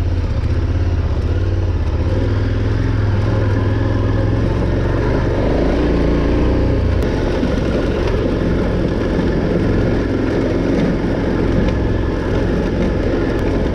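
Adventure motorcycle engine running under way, with wind and road noise. The engine note changes about six to seven seconds in.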